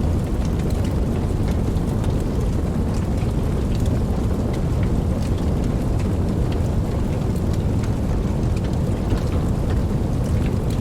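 Steady rain falling: a deep, even hiss with scattered sharp ticks of single drops.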